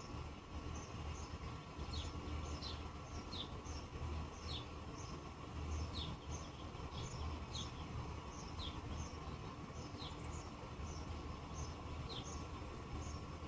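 A bird chirping over and over, short high notes that slide downward, about one a second, over a steady low rumble in the background.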